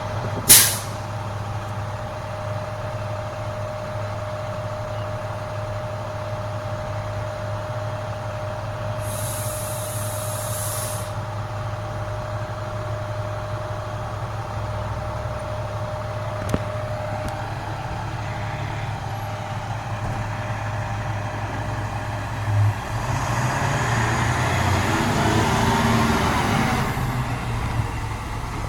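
Garbage truck's diesel engine running steadily, with a sharp air-brake hiss about half a second in and a thinner high hiss a few seconds later. Near the end the truck's noise swells louder for a few seconds, then eases off.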